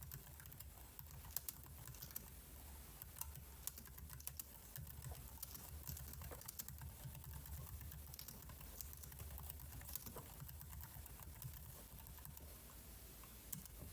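Computer keyboard keys clicking at an irregular pace, single presses and short runs, over a faint steady low hum.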